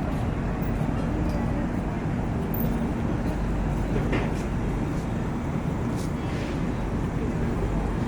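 Steady low rumble of an Indian Railways train, with a couple of faint brief squeaks partway through.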